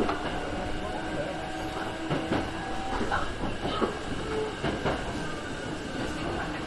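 Hankyu electric commuter train running along the track, heard from inside the front car: steady wheel-on-rail running noise with a held low hum and a few irregular knocks from the wheels over the rails.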